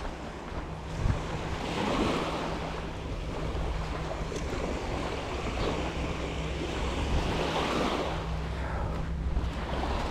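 Surf washing on the beach, swelling and ebbing, with wind rumbling on the microphone.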